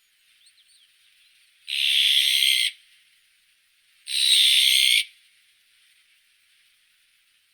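Azure-winged magpie giving two harsh, scratchy calls, each about a second long and a little over a second apart, with a few faint high chirps just before the first.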